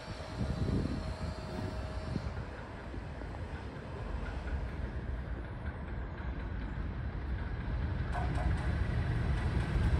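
Low, steady rumble of an approaching train on the line, growing slowly louder from about three seconds in. A faint steady tone is heard in the first two seconds.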